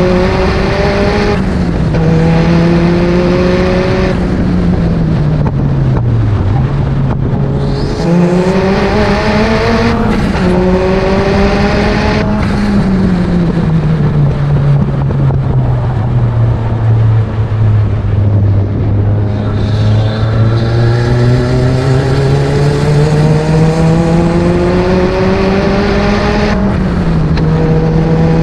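Turbocharged Mazda MX-5 four-cylinder engine of an MEV Exocet kit car heard onboard at speed on track, with wind and road noise. The engine revs climb with quick upshifts, fall away as it slows for a corner about five seconds in, and pull hard again. It then runs at lower revs through the middle and builds up to another upshift near the end.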